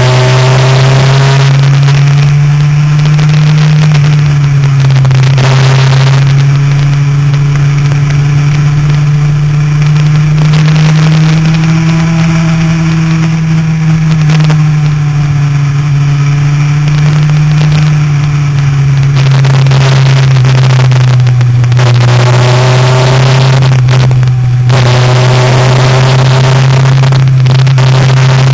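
Motorcycle engine running hard at track speed, its pitch rising and falling with throttle and gear changes through the corners, under heavy wind noise on the bike-mounted camera's microphone.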